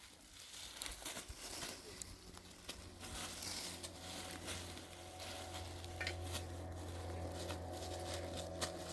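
Light crackling and rustling with scattered small clicks, joined about three seconds in by a steady low hum.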